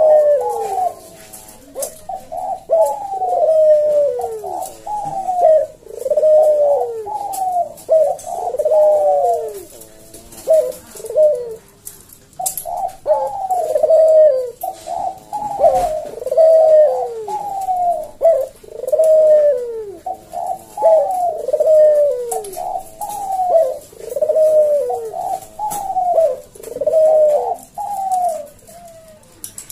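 Puter (ringneck dove) cooing on and on in a rapid series of loud, falling coo notes, pausing briefly about a third of the way through and again near the end. This is the sharp, full 'bekur' coo that keepers prize in a singing puter.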